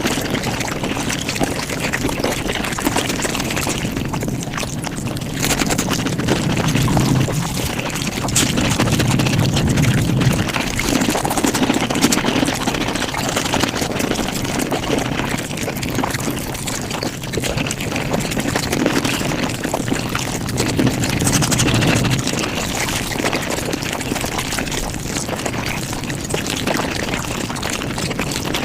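Close-miked eating sounds sped up about fivefold, with chewing and mouth noises run together into a dense, continuous stream of rapid clicks.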